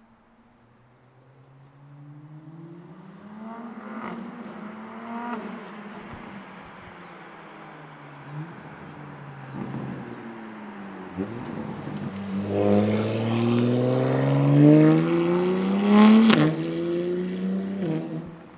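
BMW G81 M3's twin-turbo S58 straight-six, running through catless downpipes and an equal-length midpipe, revving up in several pulls with the pitch climbing each time. The longest and loudest climb comes near the end and ends in a sharp crack, after which the revs fall away.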